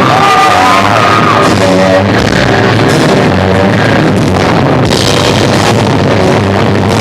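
Live rock band playing loud, with electric guitar, bass and drums, in a poor-quality recording. A high pitched note glides up and back down in the first second and a half.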